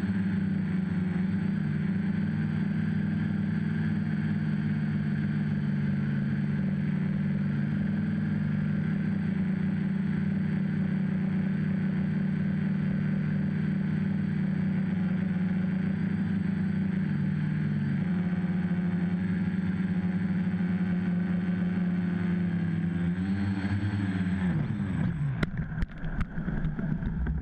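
Radio-controlled copter's motors and propellers running with a steady hum. Near the end they spin down with a falling pitch, and a few sharp clicks follow as they stop.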